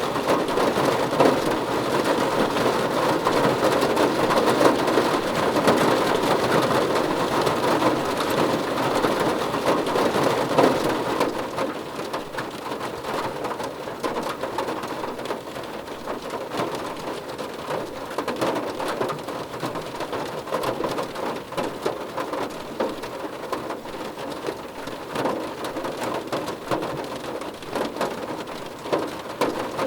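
Rain falling on a car roof, a dense patter of drops hitting the metal. It eases and grows quieter about a third of the way through.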